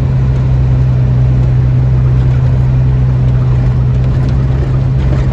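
The 4.3 V6 in a customised 1947 Ford F1 pickup running at a steady pace, a constant engine drone that does not rise or fall.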